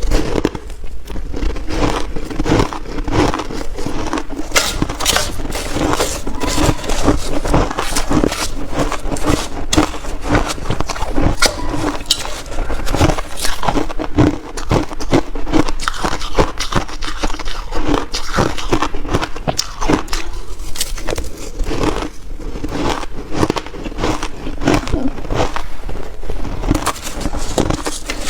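Shaved ice crunched and chewed in big bites: a dense, irregular run of crackling crunches.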